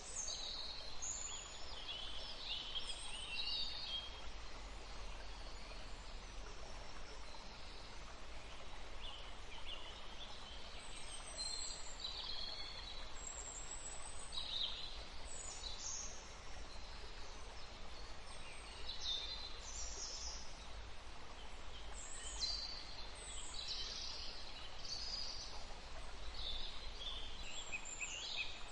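Songbirds singing and calling over the steady rush of a forest stream, with short chirps and whistles every second or so.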